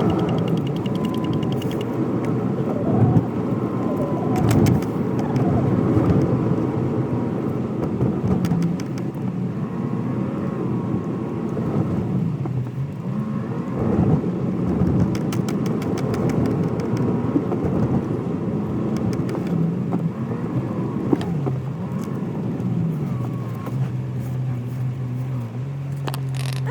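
Car cabin noise while driving: engine and road noise with pitch that rises and falls, and scattered clicks. A steadier low hum sets in near the end.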